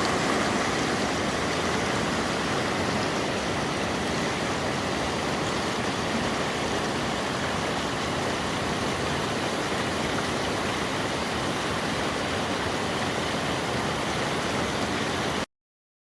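Steady rush of water from a mountain waterfall and its stream, an even hiss with no distinct events, cutting off abruptly near the end.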